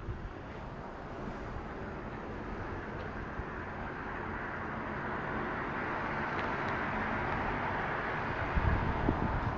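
Street traffic noise: a steady hiss of passing-car tyres and engines that slowly grows louder. Wind buffets the microphone in low gusts near the end.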